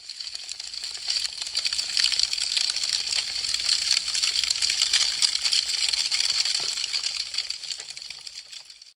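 Wood fire crackling: a dense stream of small sharp snaps and pops from burning branches, swelling in the middle and fading out near the end.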